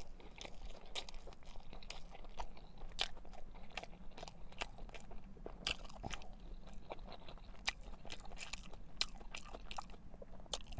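A man chewing a mouthful of Subway sub sandwich: irregular wet mouth clicks and smacks, several a second.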